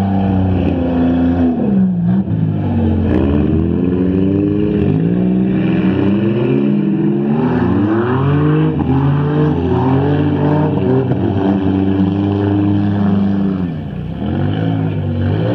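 Several stock front-wheel-drive cars' engines racing on a dirt track, revving up and dropping back again and again as the drivers accelerate and lift, with the pitches of different cars overlapping. The sound dips briefly near the end.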